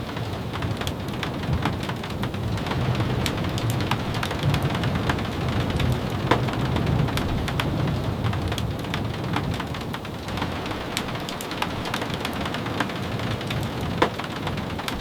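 Steady rain falling, with a low rumble of thunder that swells and fades in the middle, and scattered sharp ticks and pops throughout.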